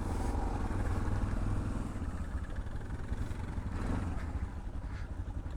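Suzuki DR650 single-cylinder motorcycle engine running steadily at low revs with an even pulse.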